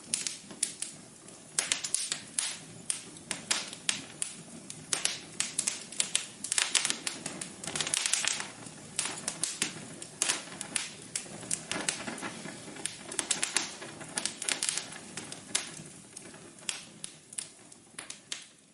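Wood fire in a fireplace crackling, with dense, irregular sharp pops and snaps over a soft hiss.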